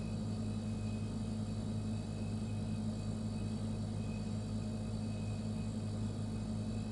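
Refrigerator running: a steady low electric hum from the compressor, with a few faint higher steady tones over it.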